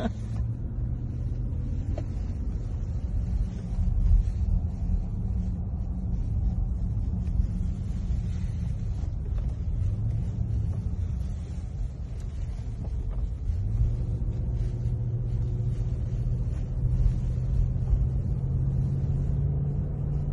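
Car driving, heard from inside the cabin: a steady low rumble of engine and road noise, with the engine tone growing stronger about two-thirds of the way through.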